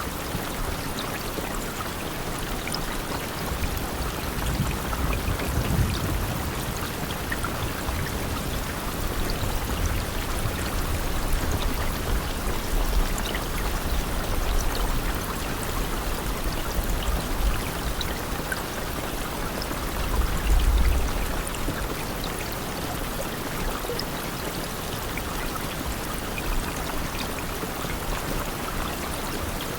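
Steady rain, a dense even hiss with many individual drops ticking through it. A low rumble swells at times, loudest about twenty seconds in.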